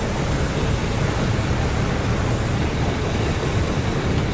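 Rice combine harvester running with a steady, even machine noise while unloading grain from its tank.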